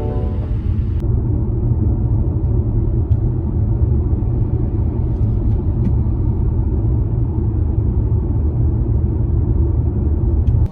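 Steady, loud low rumble with a few faint clicks, cutting off suddenly near the end.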